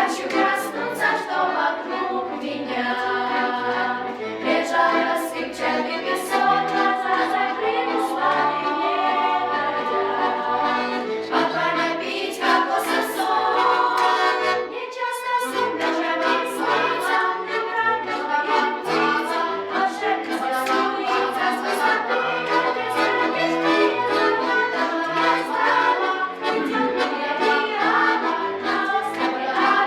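A girls' vocal ensemble singing a pop song together, with a steady-beat instrumental accompaniment. There is a brief drop in the music about halfway through.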